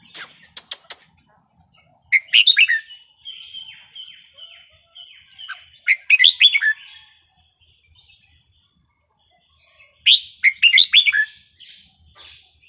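Red-whiskered bulbul singing: three loud, quick warbled phrases about four seconds apart, with softer calls between them. A few sharp clicks come in the first second.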